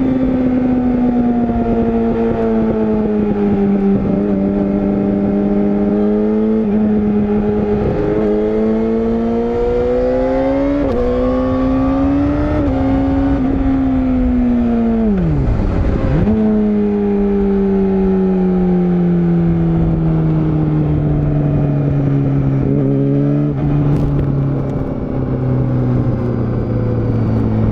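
Yamaha YZF-R6 (RJ27) inline-four engine running on a downhill ride, its pitch drifting up and down with several sudden steps, over steady wind and road noise. About 15 seconds in the engine note drops sharply and comes straight back up, then it falls slowly toward the end as the bike slows.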